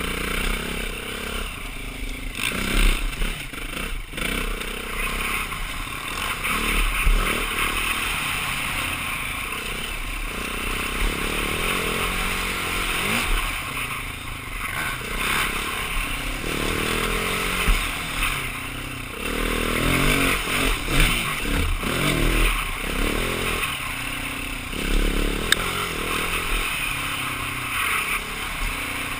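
A 2009 BMW G450X's single-cylinder four-stroke engine running under a rider's throttle on a dual sport ride, its pitch rising and falling as it revs up and down. A few sharp clattering knocks are heard along the way.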